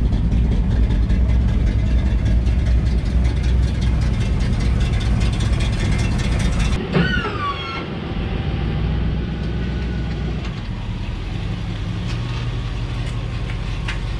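A classic Chevrolet Impala's engine idling steadily. About seven seconds in, the sound changes abruptly to a slightly quieter steady idle, with a brief falling tone at the change.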